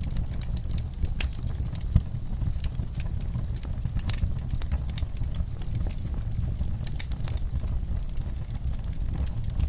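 Wood fire in a fireplace crackling with irregular sharp pops over a steady low rumble, one louder pop about two seconds in.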